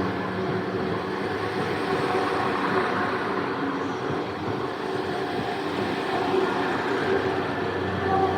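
Two coupled Class 172 Turbostar diesel multiple units running into a station: a steady rumble of diesel engines and wheels on the rails, with a humming engine tone that strengthens near the end.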